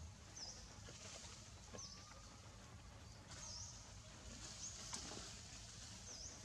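A small bird calling five times with a short, high chirp, each a quick dip in pitch, over a faint low outdoor rumble.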